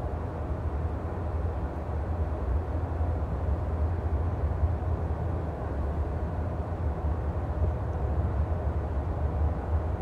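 NJ Transit Multilevel passenger coach running along the track, heard from inside the cabin: a steady low rumble of wheels on rail and car-body noise, with no clicks or changes.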